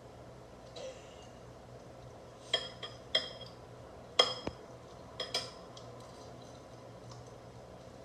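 About five light clinks of small hard objects, each with a brief bright ring; the loudest comes about four seconds in.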